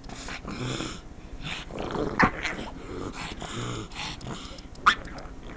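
Pug making strange growling, whining vocal noises in reaction to fabric being scratched, with stretches of scratching on the couch upholstery and two sharp, loud cries about two and five seconds in.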